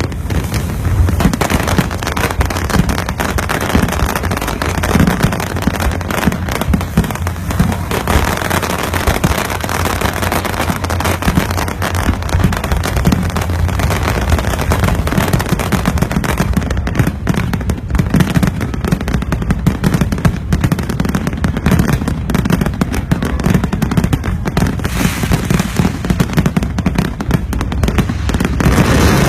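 Aerial fireworks display: a dense, unbroken barrage of bangs and crackles with no pause.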